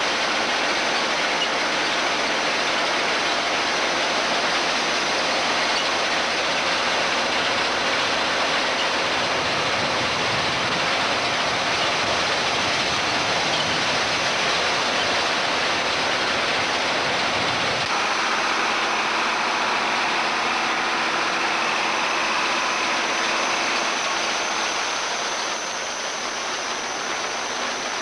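John Deere 4010 tractor and potato harvester running together, a steady, dense rush of engine and machinery noise. The low rumble drops away about two-thirds of the way through, and the sound gets a little quieter near the end.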